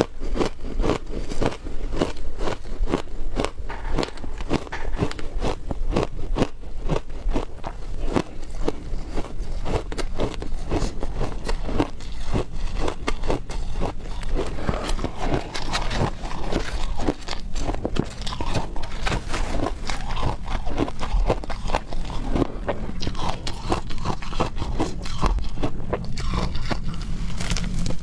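Frozen matcha ice being bitten and crunched by a person eating it: a dense, continuous run of crisp crunches, several a second.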